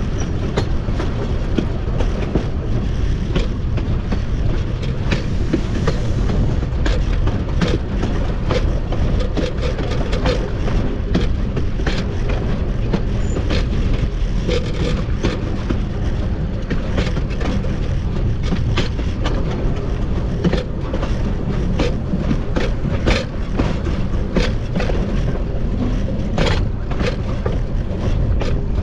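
Steady low rumble of the pilot truck wheels of Cumbres & Toltec narrow-gauge steam locomotive 488 rolling on the rails, with many irregular sharp clicks and clacks of the wheels over rail joints.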